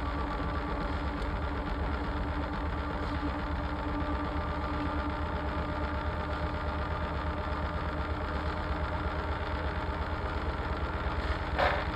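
Washing machine running with a steady motor hum over a low rumble. A brief, louder noise breaks in near the end.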